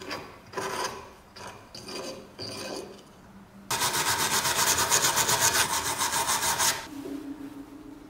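Hand scraping and rubbing strokes on the work piece, then a loud burst of fast, even rasping lasting about three seconds that stops suddenly. A faint steady hum follows near the end.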